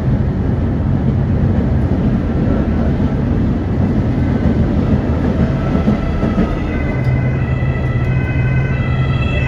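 Prague tram running on its rails with a steady low rumble. From about four seconds in, the whine of its electric traction motors rises in pitch as the tram picks up speed.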